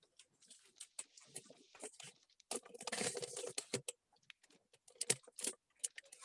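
Kraft paper being handled and glued with a glue stick: rustling and crinkling with scattered light clicks and taps, busiest for about a second near the middle.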